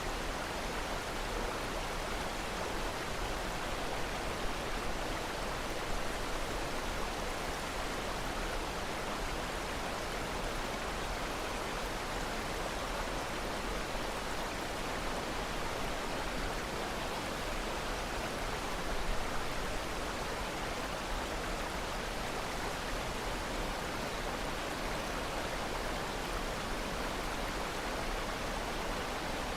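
Flowing water: a steady, even rushing noise with no pauses.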